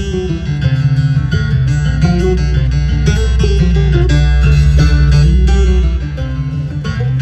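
Bluegrass band playing an instrumental break between sung verses: quickly picked acoustic strings over a steady bass line.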